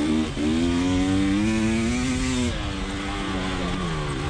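KTM 300 XC TPI two-stroke single-cylinder dirt bike engine running under load, holding fairly steady revs and then easing off about two and a half seconds in, with quick throttle blips near the end.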